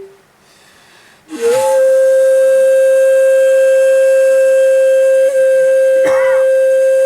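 Shakuhachi bamboo flute: a held note ends, and after a pause of about a second a breathy attack slides up into one long, steady held note. About six seconds in, a brief wavering cry sounds over the note.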